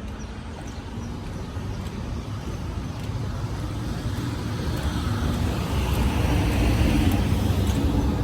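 Street traffic heard from a bicycle-mounted camera: a steady low rumble of wind and road vibration, with a vehicle growing louder and passing about six to seven seconds in.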